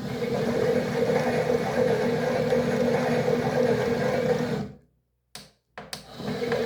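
Toy washing machine's small electric motor running with a steady whirring hum. It stops about four and a half seconds in, gives two short clicks, and starts up again near the end.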